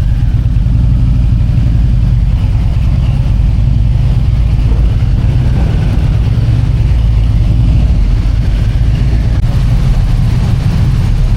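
Harley-Davidson Road King's V-twin engine running steadily at low speed, a loud, even low rumble.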